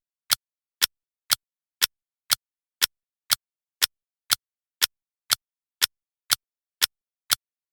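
Clock ticking, two sharp, evenly spaced ticks a second with silence between them.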